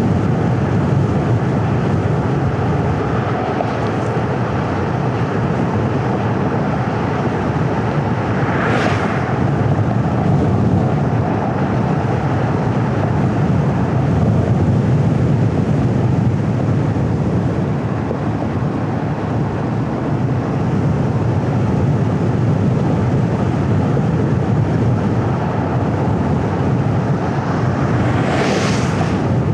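A car driving on a paved road: steady low rumble of tyres and engine, with two brief whooshes about nine seconds in and near the end.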